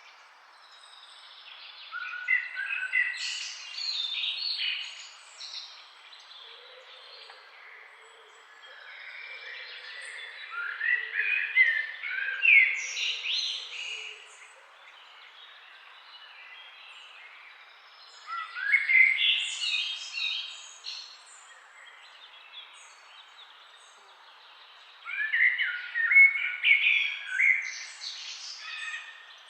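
Bird song: four phrases of quick chirps and rising notes, about every seven seconds, over a steady background hiss.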